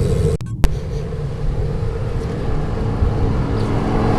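Wind rushing over the microphone of a bicycle-mounted camera during a ride, with road noise underneath. About half a second in, a brief dropout and a sharp click mark a cut in the recording.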